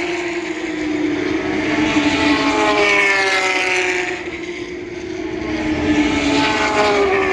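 Porsche Carrera Cup race cars' flat-six engines passing at speed, one after another, each engine note sliding down in pitch as the car goes by. There is a short lull a little past the middle before the next car comes through.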